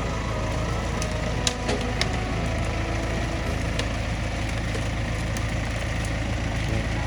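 Massey Ferguson tractor's diesel engine running steadily, with a few light knocks about one and a half, two and four seconds in.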